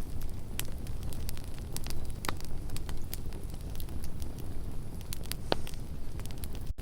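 Campfire burning, with a steady low rumble and irregular sharp crackles and pops of burning wood. The sound drops out for an instant just before the end.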